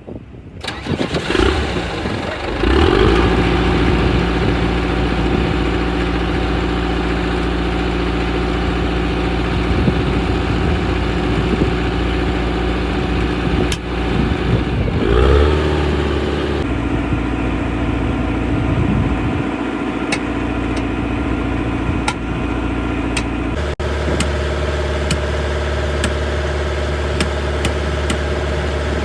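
A heavy machine's engine, most likely the dozer's, starts up and runs steadily, with a brief rev about fifteen seconds in. The engine note changes abruptly twice in the second half.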